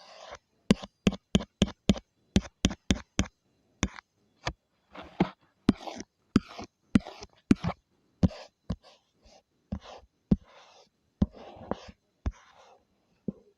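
A drawing tool tapping and stroking on a drawing surface: sharp, irregular taps, two or three a second, mixed with short scratchy strokes, which come thicker in the middle.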